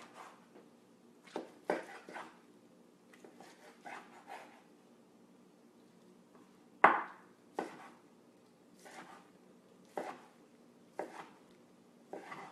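Kitchen knife dicing poached chicken on a cutting board: slow, uneven knocks of the blade against the board, about a dozen, the loudest about seven seconds in.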